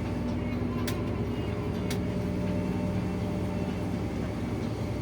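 Steady engine and road rumble of a moving vehicle, with a low droning hum.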